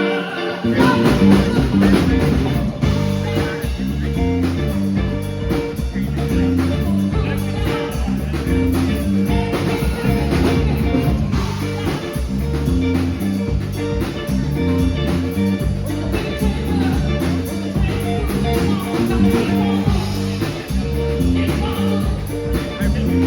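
Live rock band playing a steady groove: strummed guitar over bass guitar and a drum kit. A lone guitar is joined by the full band about half a second in.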